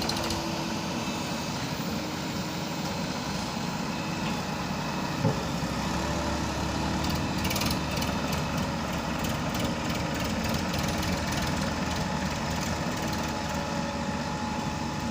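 Heavy-equipment diesel engine running steadily, with a single sharp knock about five seconds in.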